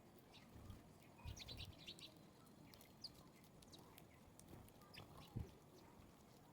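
Faint, scattered chirps of small birds, with a quick run of chirps about a second and a half in and a soft low thump near the end.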